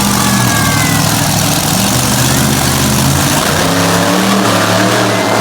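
Monster truck engine running loud and revving, its pitch rising and falling.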